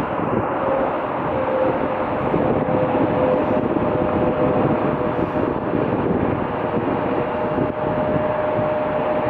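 Airliner engines running loud and steady, with a whine that slides down slightly in pitch over the first few seconds and then holds.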